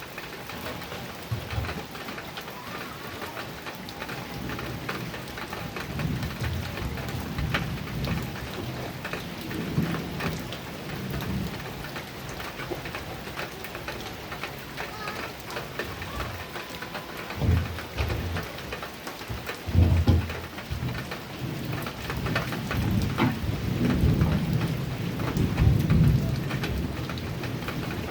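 Heavy rain falling on a metal roof, a dense patter of drops, with thunder rumbling under it again and again; the loudest claps come in the second half.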